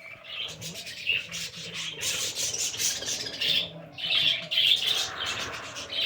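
A group of pet birds chirping and chattering without a break, with a scratchy rustling mixed in as they bathe.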